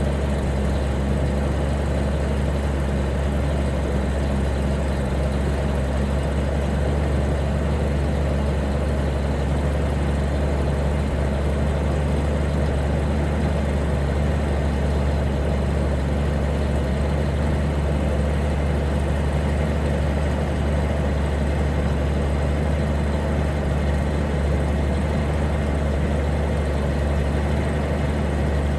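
Toyota 2F 4.2-litre inline-six in a 1969 Land Cruiser FJ40 idling steadily on half choke while warming up from a cold start.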